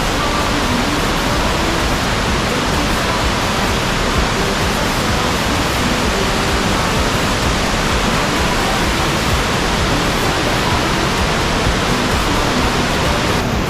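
St Columba Falls, a tall waterfall, making a loud, steady rush of falling water.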